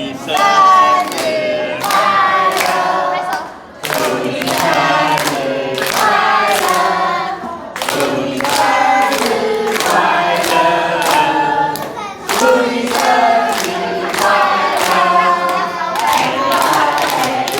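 Several voices singing together over a steady beat of sharp claps or drum hits, about two a second.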